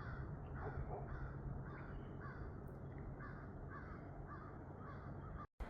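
Gulls giving a fast, evenly spaced series of harsh alarm calls, about two a second, mobbing a young eagle. The sound drops out briefly near the end.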